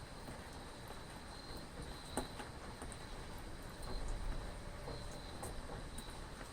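Rain falling in a steady hiss with scattered drips, under a cricket's high trill that swells and fades. A low rumble rises about four seconds in.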